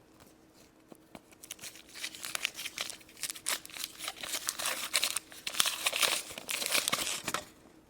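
Wrapper of a Chupa Chups chocolate surprise ball being crinkled and torn open by hand. It starts about a second and a half in and stops shortly before the end.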